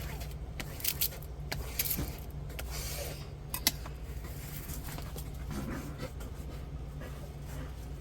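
Diamond painting kit being handled: plastic packaging and canvas rustling, with scattered light clicks and rattles, the sharpest a little under four seconds in, over a low steady hum.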